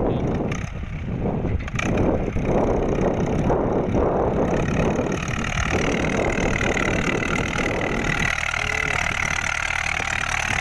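Ford 6600 tractor's diesel engine running steadily while working the field.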